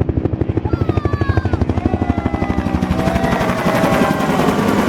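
Bell UH-1 Huey helicopter flying past low, its two-bladed main rotor giving a loud, rapid, even blade chop of about ten beats a second, with a whine that slides down in pitch as it passes.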